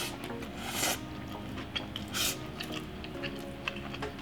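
Close-up eating sounds: chewing with wet mouth clicks and a couple of short louder bursts, over quiet background music with steady held notes.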